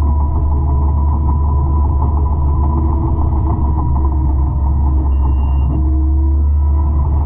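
A 200-horsepower forestry mulcher running steadily under load, a constant deep engine drone with a low hum. A short high tone sounds briefly about five seconds in.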